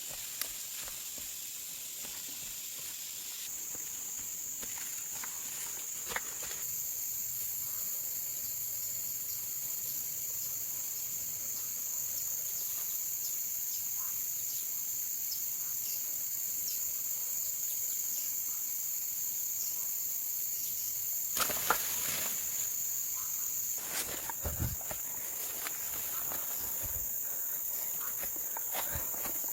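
Steady high-pitched insect chorus, thickening a few seconds in. Scattered clicks and rustles, such as footsteps or handling in leaf litter, cut through it, with a louder cluster a little past the middle.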